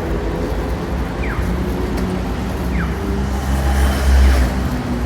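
Road traffic rumbling steadily, swelling as a vehicle passes about four seconds in, with a short falling chirp repeating about every one and a half seconds.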